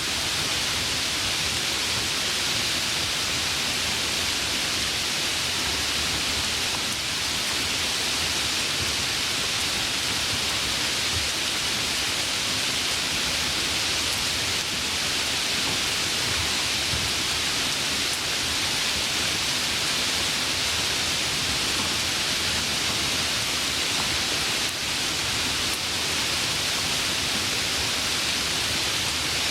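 Steady rainfall, an even hiss with no changes, no thunder and no single drops standing out.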